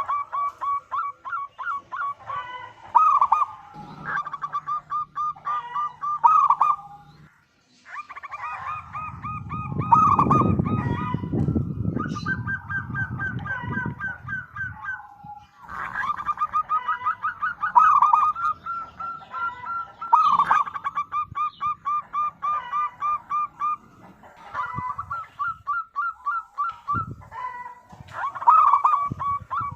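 Local zebra dove (perkutut) calling in full song: runs of quick, evenly repeated cooing notes lasting a few seconds each, with short pauses between runs. A low rumbling noise sits under the calls for a few seconds near the middle.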